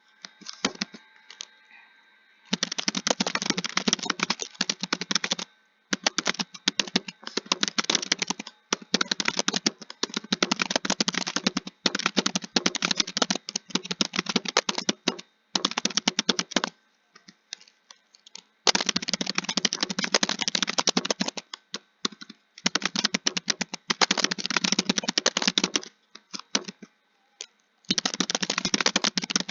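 Fast typing on a computer keyboard: dense runs of keystrokes a few seconds long, broken by short pauses. The typing starts about two seconds in.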